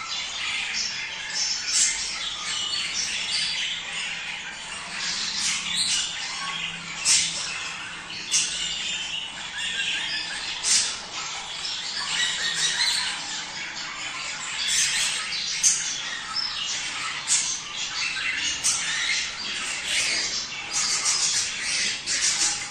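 A flock of budgerigars' mating chatter: continuous warbling and chirping with frequent sharp, brief squawks.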